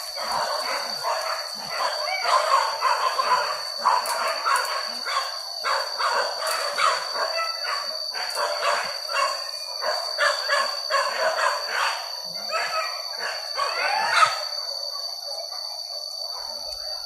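A pack of hunting dogs barking and yelping in rapid, overlapping calls, giving tongue on the trail of a wild boar; the calls thin out near the end. A steady high insect drone runs underneath.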